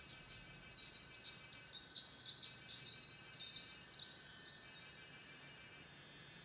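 A bird giving a quick run of short, high chirps, which fade out about four and a half seconds in, over a steady faint hiss with a few thin steady tones.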